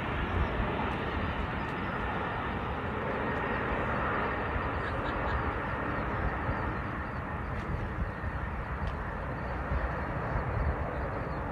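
Steady jet noise from A-10 Warthog turbofan engines, easing slightly as the aircraft moves away after the flyby, with wind rumbling on the microphone.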